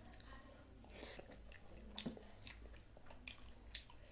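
Close-up mouth sounds of someone chewing a mouthful of rice and aloo chokha (mashed potato), with several short wet clicks and smacks.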